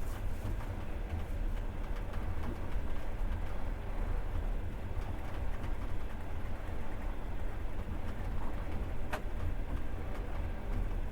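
Passenger train running, heard from inside the carriage: a steady low rumble of the wheels on the rails, with a sharp click about nine seconds in.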